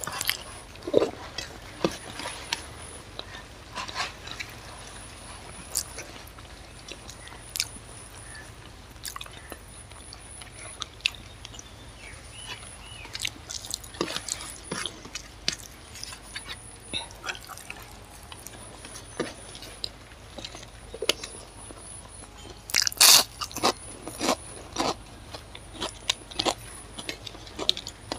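Close-miked eating sounds of rice and chicken curry eaten by hand: irregular chewing, mouth smacks and sharp clicks, with a louder run of crunchy clicks about two-thirds of the way through.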